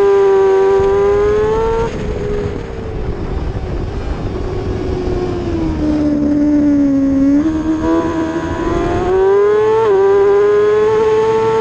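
A 600cc superbike racing motorcycle engine at high revs. It climbs in pitch, then the throttle closes about two seconds in and the revs fall slowly for several seconds. It picks up again and winds up hard, with a quick upshift drop near the end before it climbs once more.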